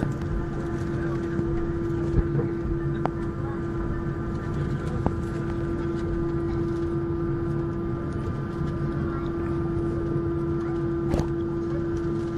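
Steady engine and air noise inside the cabin of an Airbus A321 airliner, with a constant hum and higher whine; a few faint clicks.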